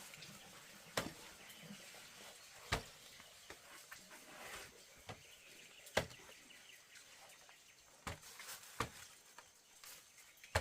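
Sharp knocks or taps, about six of them at irregular intervals of one to three seconds, over a faint outdoor background.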